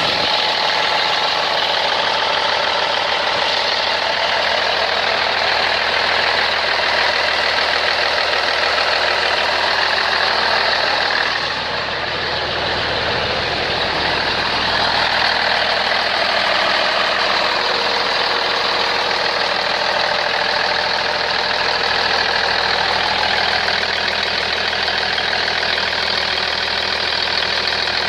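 Cummins Big Cam IV 400 hp inline-six diesel engine running steadily, likely at idle, with a brief dip in level a little before halfway. The engine runs, as its 'runner' listing says.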